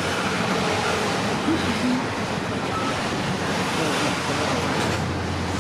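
Freight train rolling slowly past close by: a steady noise of wheels on rail, with no distinct horn or bell.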